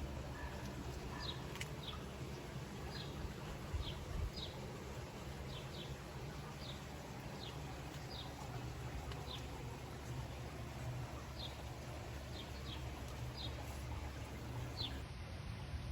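A small bird chirping outdoors: short, high, falling chirps at an uneven pace of about one a second, over a steady low rumble.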